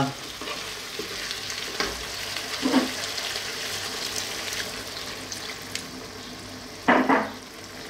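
Broccoli curry sizzling steadily in a wok while it is stirred with a wooden spatula, with a few short scrapes. A splash of water is poured in partway through. There is a short, louder knock about seven seconds in.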